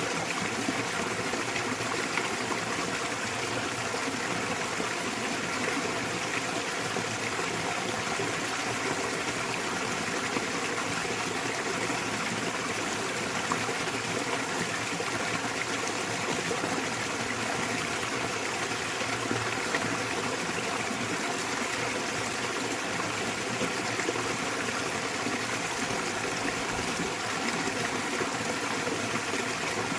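Small waterfall splashing into a mountain stream, a steady rush of falling and running water.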